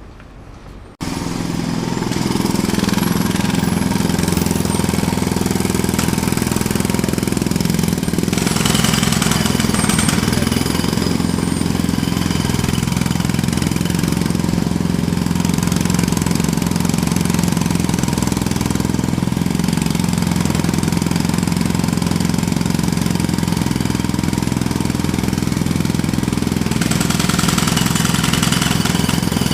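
Jackhammer running continuously, starting abruptly about a second in and keeping up a dense, rapid hammering.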